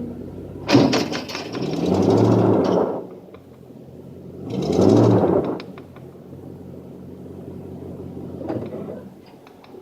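Ford F-250 pickup's engine revving hard twice under load, once about a second in and again around five seconds, its pitch climbing each time, as it strains on a tow chain to pull out a box truck. It drops back to a lower steady run in between and afterwards.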